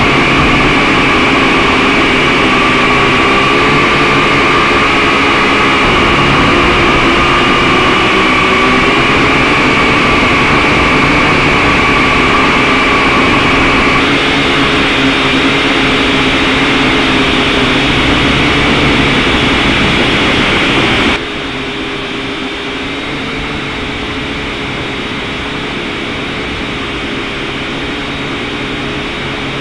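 Quadcopter drone motors and propellers, a steady high whine over a lower hum that wavers slightly. The sound changes abruptly about halfway through and drops suddenly in level about two-thirds of the way in.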